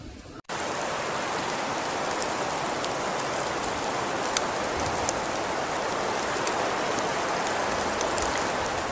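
Steady hiss of heavy rain falling on a surface, with scattered small drop ticks. It starts abruptly about half a second in.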